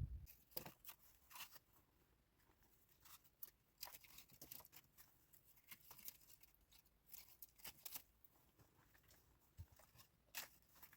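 Faint, irregular crunching and crackling, short sharp clicks a few times a second at most, loudest about half a second in and near ten seconds in.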